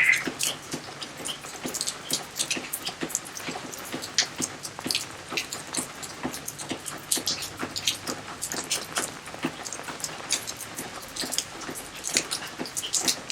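Rain falling in a garden: many separate heavy drops striking surfaces at an irregular pace over a soft steady hiss, with one brief louder sound right at the start.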